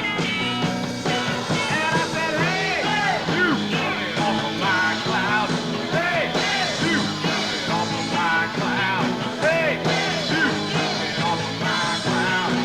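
Live rock band playing: electric guitars, bass and drums, with a lead line that bends up and down in pitch over a steady bass line.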